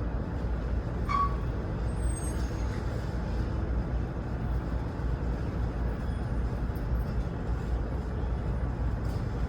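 Steady low engine rumble of idling trucks.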